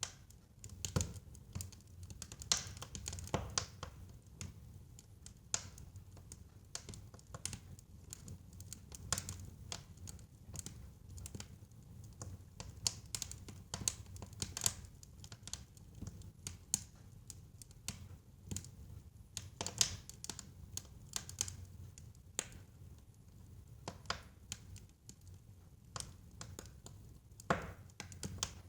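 Wood fire crackling in a fireplace: irregular sharp pops and snaps, some louder than others, over a low steady sound of the burning.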